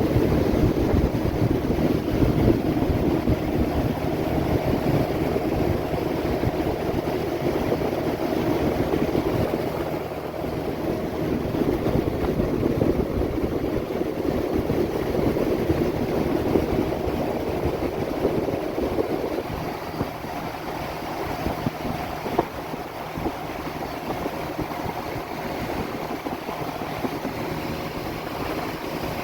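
Small boat's motor running steadily under way, with wind buffeting the microphone.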